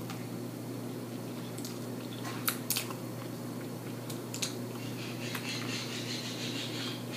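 Close-up eating sounds from a person eating by hand: wet chewing, lip smacks and finger licking, with a few sharp smacks about two and a half seconds in. A steady low hum runs underneath.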